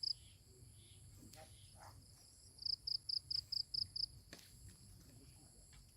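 Insect chirping: a quick run of about seven short, high chirps at roughly five a second, over a steady high insect drone.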